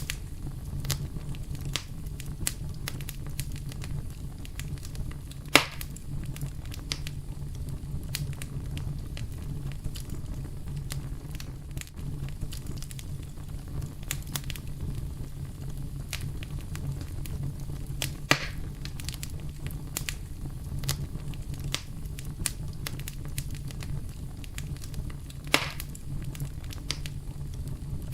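Wood campfire burning, with steady light crackling and three louder pops spread through, over a low steady rumble.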